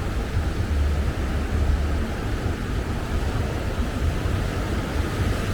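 Steady wash of ocean surf with wind buffeting the microphone, a constant low rumble under an even hiss.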